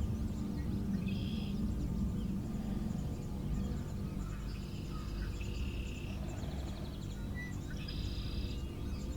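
Songbirds singing short repeated phrases, three or four times with pauses between, over a steady low background rumble.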